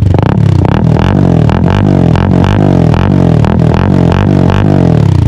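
Honda CB150R's single-cylinder engine revving loudly through an aftermarket SC exhaust, its pitch rising and falling in quick repeated throttle blips over a deep exhaust drone.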